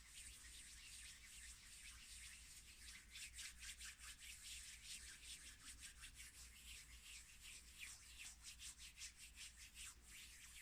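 Hands rubbing in quick, repeated strokes, a soft dry swishing that becomes faster and denser about three seconds in.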